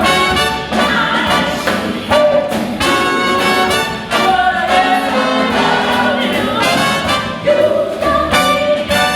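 Jazz orchestra playing, with the brass section prominent.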